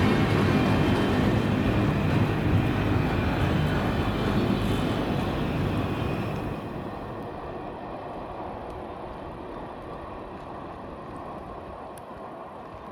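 CSX freight train's cars rolling past on the rails, a steady rolling rumble that fades away over about two seconds around the middle as the tail end clears, leaving a quieter steady background.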